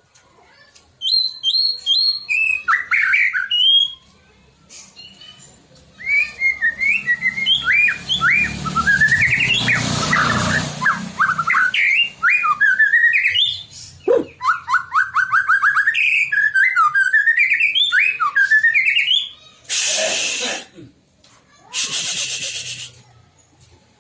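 White-rumped shama singing: rapid phrases of clear whistled notes and trills, separated by short pauses. Two harsh, hissing bursts of about a second each come near the end.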